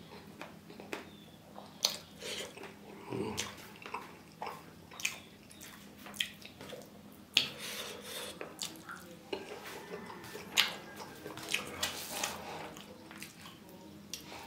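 Close-up eating sounds: chewing and lip smacking on mouthfuls of rice and curry eaten by hand, heard as irregular sharp smacks and clicks.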